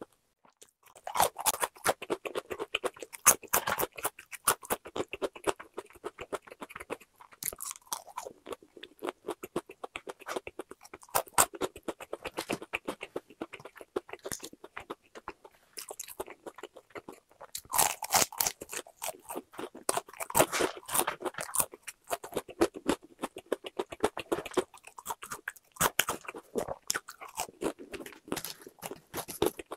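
Close-miked chewing of crispy boneless fried chicken: bouts of rapid crackling crunches as the coating breaks between the teeth, with short lulls between bites.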